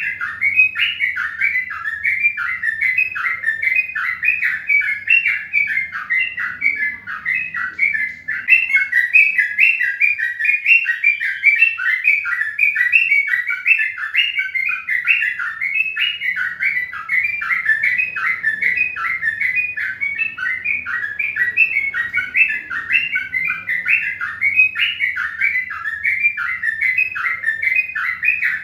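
Birds chirping: a dense, unbroken stream of short, downward-sliding chirps, several a second, at a steady level.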